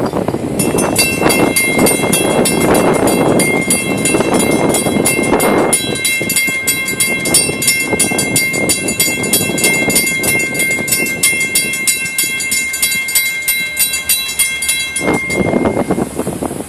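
Florida East Coast Railway freight train passing with a loud rumble, while a warning bell dings rapidly and steadily, stopping suddenly about fifteen seconds in.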